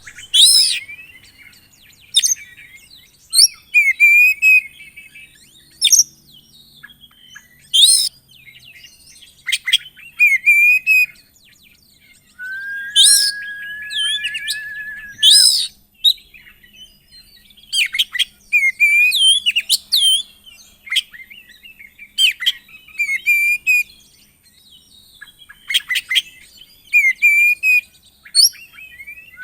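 Oriental magpie-robin (kacer) singing a loud, varied song of sharp whistles, sweeping notes and chirps, repeated every second or two, with a steady buzzing trill lasting about three seconds about halfway through.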